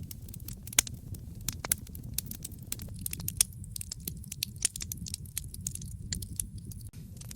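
Fireplace fire crackling: irregular sharp pops and snaps, several a second, over a steady low rumble of the burning.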